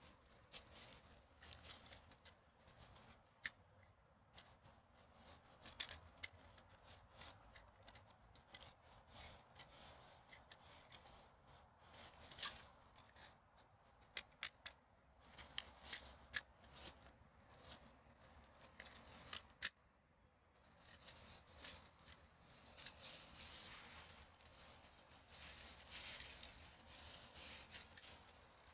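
Irregular rustling and sharp crackling of dry litter and forest-floor debris being handled, with a short lull about two-thirds of the way through and steadier rustling after it.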